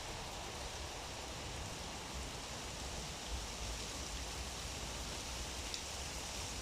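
Heavy rain falling steadily in a storm, an even hiss with a low rumble of wind underneath and a few faint drop ticks.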